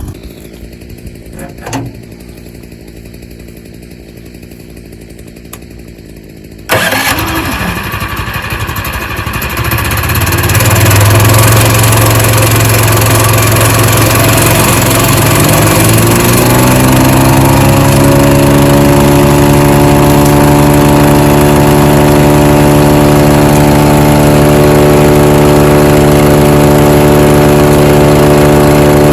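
Engine running quietly, then about seven seconds in a much louder machine noise cuts in suddenly; a rising whine climbs over several seconds and levels off into a steady drone as the new shredder comes up to speed.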